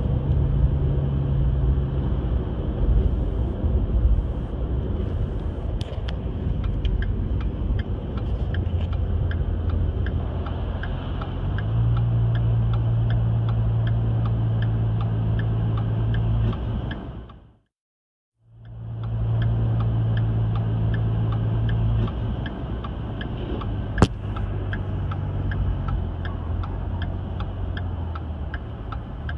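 A steady engine drone with a rapid, regular ticking over it. It fades out briefly and comes back about two-thirds of the way through, and there is a single sharp click near the end.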